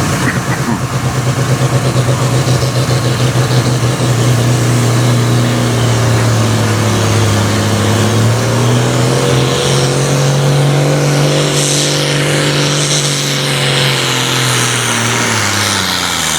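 International Harvester 1066 tractor's turbocharged diesel pulling a weight-transfer sled under full load. The engine runs rough at first, then holds a steady note that rises a little partway through and drops away near the end as the tractor bogs down.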